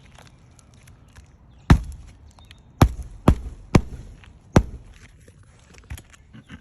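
Nails being driven into a roof shingle: five sharp strikes, irregularly spaced, between about two and five seconds in, then a fainter knock near the end.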